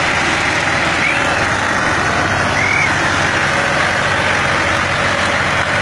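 Tractor diesel engine running loudly and steadily, with a couple of brief high-pitched calls over it.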